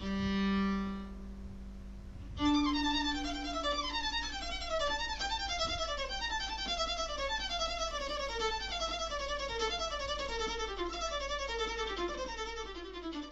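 Violin music: a long held low note, then from about two seconds in, quick running notes in repeated falling sequences.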